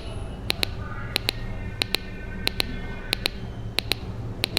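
Small speaker driven by a two-transistor NPN/PNP capacitor oscillator timed by a 4.7 µF capacitor, clicking steadily in double clicks about three every two seconds. Each double click is one charge-discharge cycle of the capacitor, so the circuit is oscillating.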